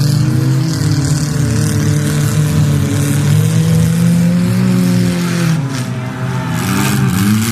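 Several stripped-down derby cars' engines revving hard together, their pitches rising and falling as the cars accelerate and slow.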